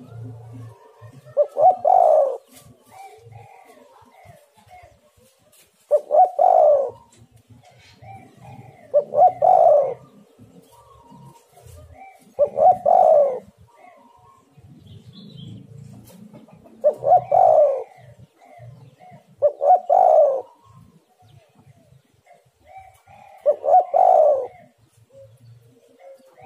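Spotted dove cooing, its territorial call repeated seven times, each phrase about a second long and a few seconds apart. Fainter chirps fill the gaps between the calls.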